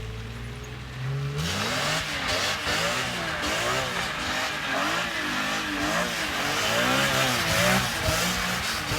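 BMW E46 M3's S54 straight-six engine idling, then revved repeatedly, the pitch climbing and falling with each blip of the throttle.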